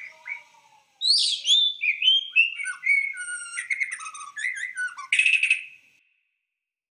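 Birdsong: a quick run of chirps and whistled notes, most of them falling in pitch, ending in a short harsh, rasping note.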